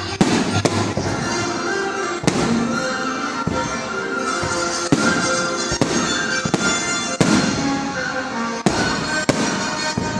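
Aerial firework shells bursting: about a dozen sharp bangs at uneven intervals, with music playing throughout.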